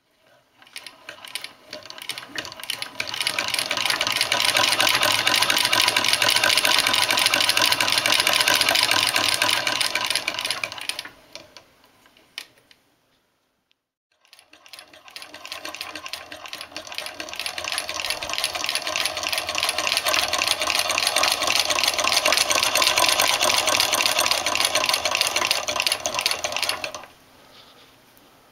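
Restored 1870 American Buttonhole, Overseam and Sewing Machine Co. sewing machine stitching, a fast, even clatter. It runs in two spells: it picks up speed and stops about eleven seconds in, then starts again after a short pause and runs until shortly before the end.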